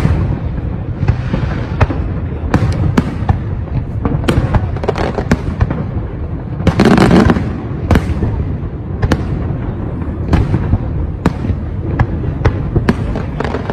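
Aerial fireworks display: a steady run of sharp bangs from bursting shells over a continuous rumble, with a louder, denser volley about seven seconds in.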